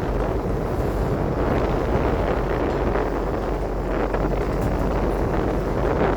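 Wind buffeting the microphone aboard a boat at sea, over a steady low drone from the boat's engine.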